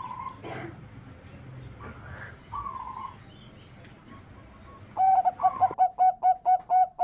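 Zebra dove (perkutut) cooing: two softer coos, then about five seconds in a loud, rapid run of short staccato coos, about four a second.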